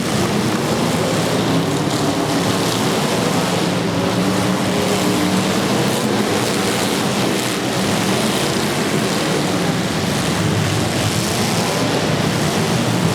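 Several demolition derby car engines running loud and continuous, with some revving toward the end.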